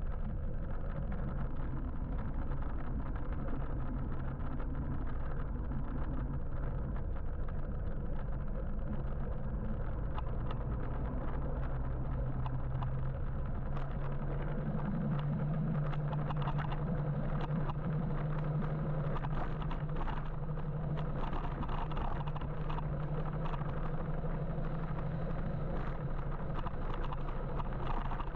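Steady traffic and road noise heard from an electric motorbike riding through city streets, with a low hum that swells about halfway through and eases off near the end.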